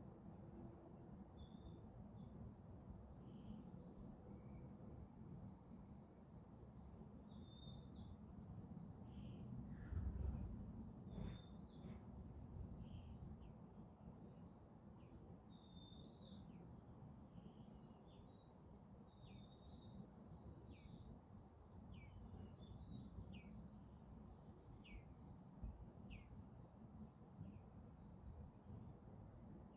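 Faint birdsong: many small birds calling, with short high chirps and quick falling twitters scattered throughout, over a low steady rumble. A brief low rumble swells about ten seconds in.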